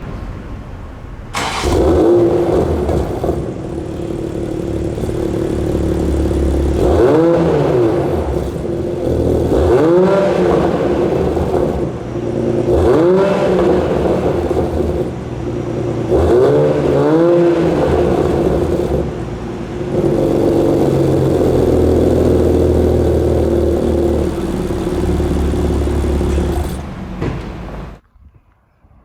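2020 Toyota Supra's B58 turbocharged inline-six running through a Borla ATAK exhaust, with several quick rises and falls in revs, then a steadier stretch with a deep rumble. The sound cuts off suddenly near the end.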